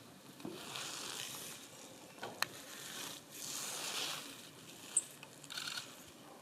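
Dry grass and leaf litter rustling in two spells as black-faced buntings forage through it, with a few sharp clicks in between. A single short, high-pitched call comes about five seconds in.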